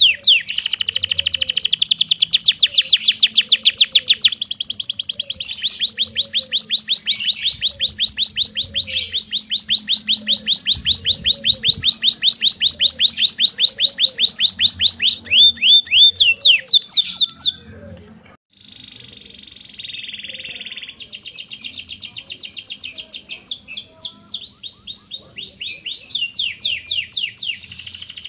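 Domestic canary singing a long, loud song of fast, rolling trills. About two-thirds of the way through there is a brief, quieter buzzy passage, then the rapid trills start again.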